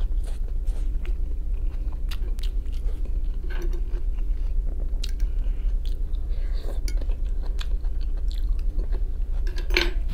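A person chewing and biting into boiled potato and grated carrot salad, with short clicks of a fork on a plate, over a steady low hum.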